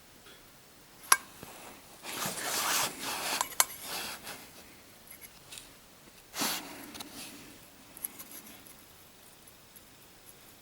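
Handling noises from metal engine parts: a sharp click about a second in, then about a second and a half of scraping and rubbing ending in another click, and a shorter rub a few seconds later.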